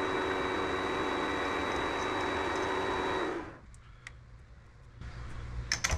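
Mini lathe running with a steady motor whine, then switched off about three and a half seconds in, the sound falling away quickly; a few light clicks follow.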